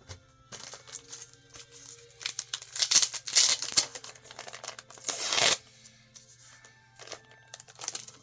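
Plastic comic-book bags crinkling and rustling as comics are handled and shuffled, loudest in the middle few seconds, with a few shorter rustles toward the end.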